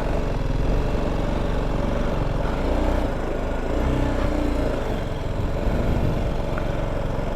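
BMW G310 GS single-cylinder motorcycle engine running steadily at low speed as the bike is ridden through loose sand, the engine note rising and easing slightly.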